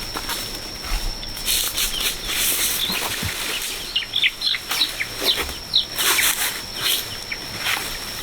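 Birds chirping in short falling notes, many times over, mixed with bursts of rustling, loudest about two seconds in and again about six seconds in, over a steady high-pitched tone.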